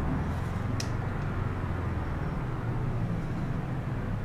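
Car engine running steadily, heard from inside the cabin, with a single sharp click about a second in.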